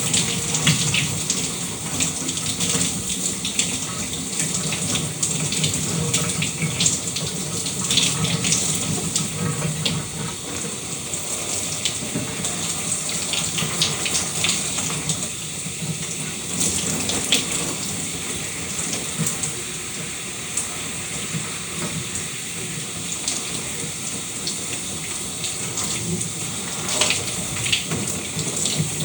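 Shower running steadily: a continuous hiss of spray with irregular little splashes of water striking a surface.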